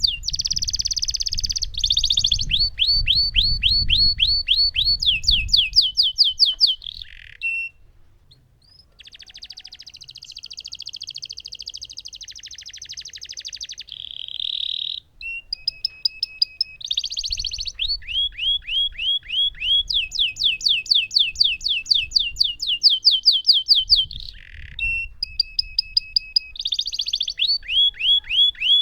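Lemon canary singing a long, continuous song of rapid repeated downward-sweeping notes and fast rolling trills, with a short break about eight seconds in.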